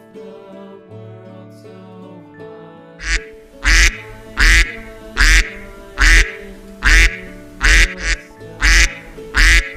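Duck quacking over and over, about ten quacks evenly spaced less than a second apart, starting about three seconds in, over steady background music.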